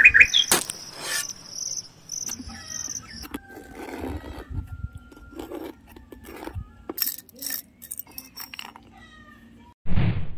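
Birds chirping and an insect's high, steady trill, the trill stopping about a third of the way in, over scattered small clicks and scrapes of a metal blade working dry cement powder. A short low thump comes near the end.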